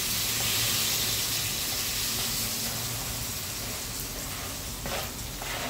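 Chopped tomatoes sizzling in hot butter in a frying pan, just added: a steady hiss that eases slightly, with a few light knocks near the end.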